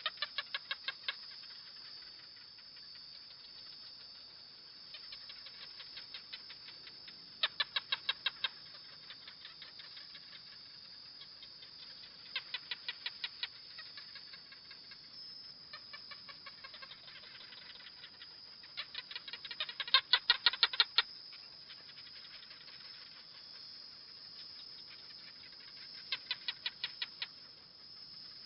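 Gecko calling: repeated series of quick, evenly spaced chirping clicks, six to eight in each run, with several runs of differing loudness and the loudest about two-thirds of the way through.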